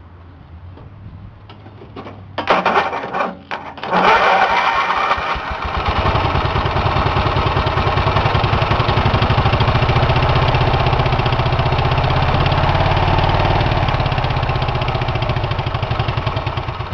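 Briggs & Stratton 18 hp twin-cylinder engine being started while running on a single cylinder, the other cylinder's head removed. A short first burst about two seconds in, then it catches about four seconds in and runs steadily with a fast low pulse, the level falling off near the end.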